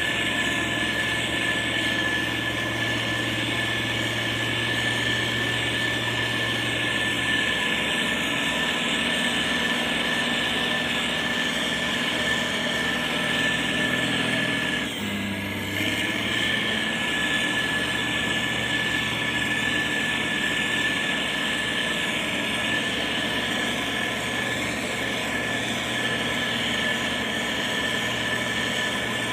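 Heavy road-construction machinery running steadily: diesel engine noise with a constant high whine, dipping briefly about halfway through.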